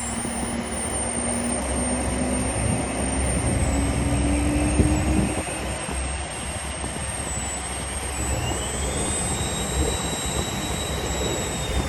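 Learjet 60's Pratt & Whitney Canada PW305A turbofans running at high power in a ground run-up: a steady jet roar with a high whine, and a second whine that climbs in pitch about two-thirds of the way through and then holds.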